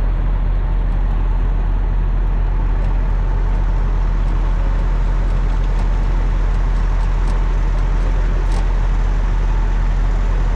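Ferry's engine running with a steady, unchanging low drone and hum, heard aboard the vessel as it crosses.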